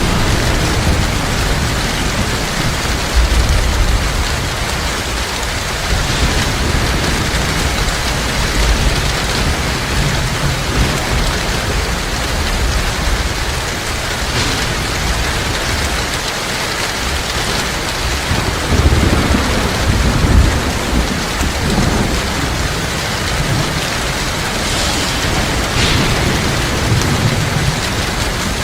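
Heavy rain pouring steadily, with low rolls of thunder rumbling underneath, strongest about two-thirds of the way through.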